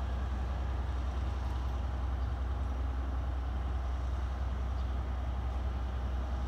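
Steady low hum and rumble of a stopped electric train's onboard equipment at the platform, unchanging throughout.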